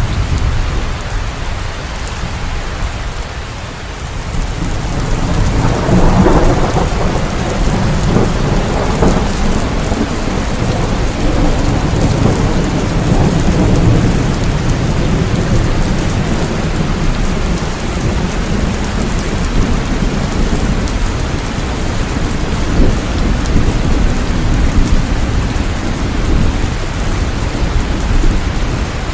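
Steady heavy rain with a low rumble of thunder, which swells about six seconds in and then rolls on under the rain.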